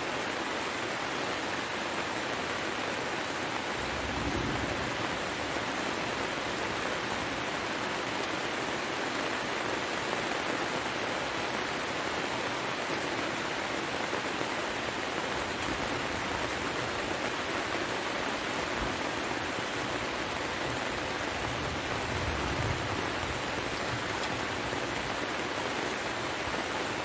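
Heavy rain falling steadily, a dense even hiss with no break, with a brief low rumble about four seconds in and another later on.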